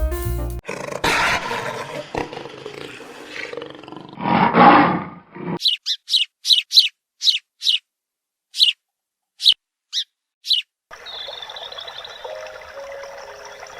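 An animal roar, loudest about four to five seconds in, then a bird giving about a dozen short, high chirps with gaps between them. Near the end comes a steady rush of flowing water with birdsong.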